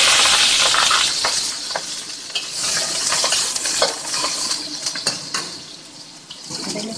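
Chopped spring onions (onion leeks) frying in a little hot oil in a wok: a loud, steady sizzle with scattered clicks and scrapes of a spatula stirring against the pan. The sizzle dies down near the end.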